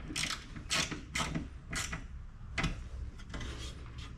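Hand ratchet with a 4 mm Allen socket tightening the door-armor bolts: about five short bouts of ratchet clicking at uneven intervals, easing off near the end.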